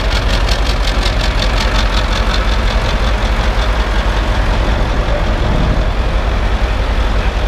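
Eight-cylinder Caterpillar diesel engine of a three-wheeled motorcycle idling steadily, running smoothly ('just sings'). A fast, even ticking rides on top for the first few seconds, then fades.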